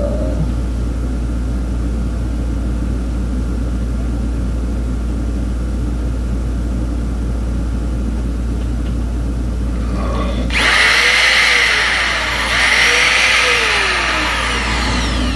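Electric drill run in two bursts of about two seconds each, starting about ten seconds in. In each burst the motor speeds up and then winds down as it drills a hole into wood. Before the bursts there is only a steady low hum.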